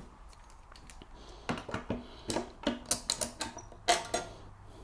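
Quick run of light clicks and knocks from a wooden template being handled and set against a timber stair string, starting about a second and a half in.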